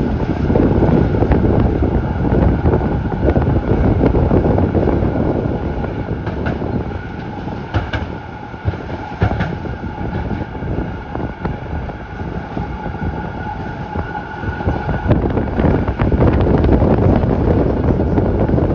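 Z3 class tram running along the track, heard from on board: a steady low rumble of steel wheels on rails with scattered clicks and a steady whine. It eases off in the middle and grows louder again near the end.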